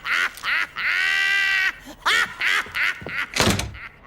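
Cartoon voice making nasal, quack-like vocal noises: a few short calls that bend in pitch, one long held call about a second in, then more short calls, and a thunk about three and a half seconds in.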